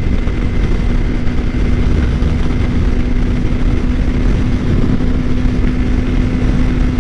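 Suzuki GSX-R600 inline-four engine running at a steady pitch while the motorcycle cruises, with wind rushing over the microphone.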